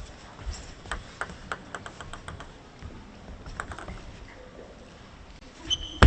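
Sharp clicks of a table tennis ball, with a quick run of bounces about one to two seconds in and a few more later.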